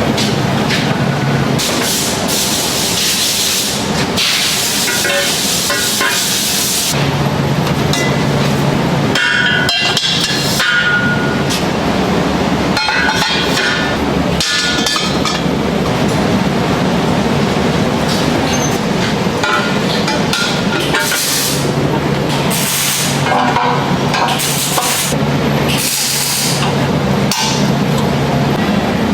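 Metalworking shop sounds: a steady machine hum under stretches of loud hiss, with hammer knocks and metal clinks and rings.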